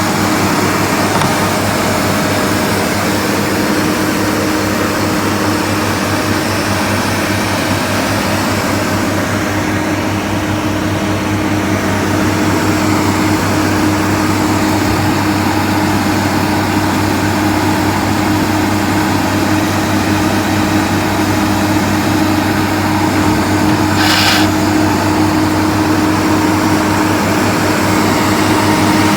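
Engine of a Nuhn manure agitation boat running steadily at constant speed, a loud even drone. A brief higher-pitched noise cuts in for about half a second near the end.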